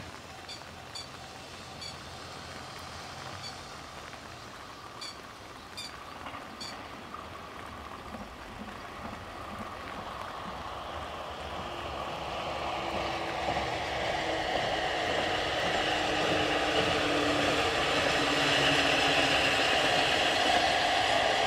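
A Chizu Express HOT3500-series diesel railcar approaching and running past, its engine and wheels on the rails growing steadily louder through the second half. Its engine note drops slightly in pitch as it comes near.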